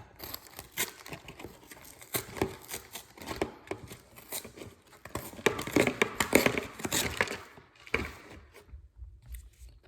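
Paper food packaging crinkling and rustling as it is handled close by, with a dense run of crackles that is busiest in the middle and thins out near the end.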